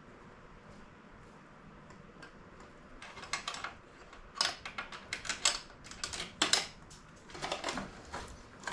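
Irregular metallic clicks and clanks of hand tools against metal parts, starting about three seconds in, during work on an engine.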